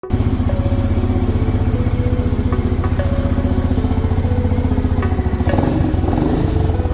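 QJ Motor SRC500's single-cylinder engine idling through its exhaust, with an even, steady thump.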